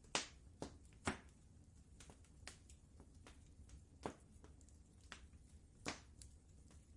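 Wood fire crackling in a fireplace: irregular sharp pops and snaps over a faint low rumble. The loudest pops fall in the first second or so, and again about four and six seconds in.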